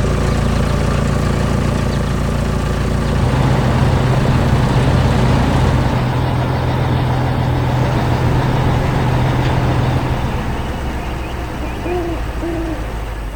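Heavy vehicle engine running steadily, with two short hoot-like calls about twelve seconds in.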